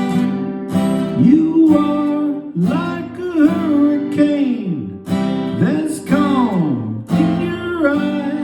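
Acoustic guitar strummed in a steady rhythm, with a melody line over it that bends up and down in pitch.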